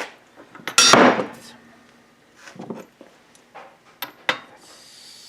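Metal parts and hand tools knocking and clicking during a VW link-pin front-beam rebuild, with one loud strike about a second in that rings briefly, a few lighter clicks later, and a soft hiss near the end.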